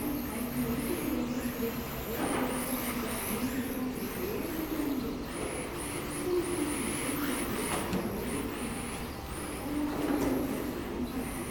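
Electric RC drift cars running on a track, their motors giving short high-pitched whines that rise and fall over and over as the cars accelerate and slide. A low wavering tone runs underneath.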